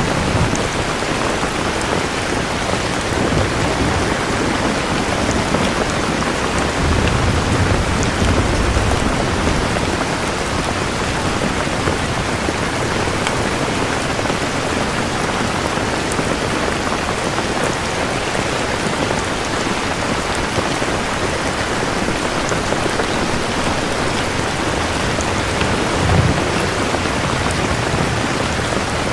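Steady heavy rain falling on surfaces, with low distant thunder rumbling about seven to nine seconds in and briefly again near the end.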